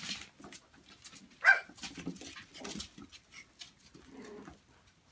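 Seven-week-old puppies yipping and whining at play, with one sharp, loud yip about a second and a half in and softer cries after it, over light scattered clicks.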